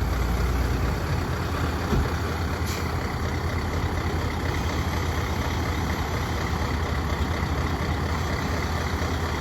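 Scania Super 660R's V8 diesel engine idling steadily, a low even hum, with a brief click about two seconds in.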